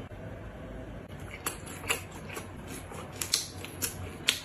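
Close-miked chewing of food, with a series of sharp, irregular crunchy clicks.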